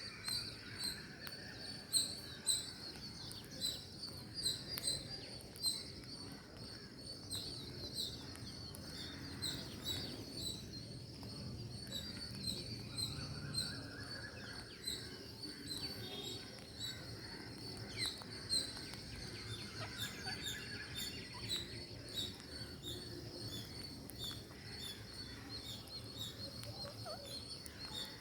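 Ring-necked parakeets chirping: a steady stream of short, high chirps, several a second, with a few longer, lower calls now and then.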